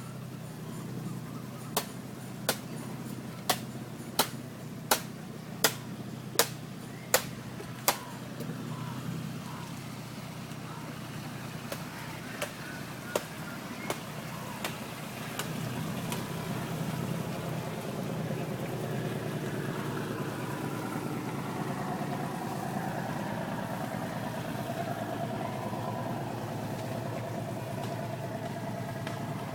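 Boat engine running steadily with a low hum. A series of sharp, evenly spaced clicks, a little under a second apart, comes over it for the first several seconds, then a few fainter ones. The engine sound grows louder about halfway through.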